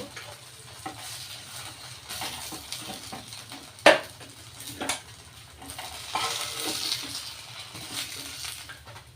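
Pumpkin-flower fritters sizzling in hot oil in a kadai, with a spatula stirring and scraping in the pan and two sharp clinks against the kadai, about four and five seconds in, as the fritters are lifted out.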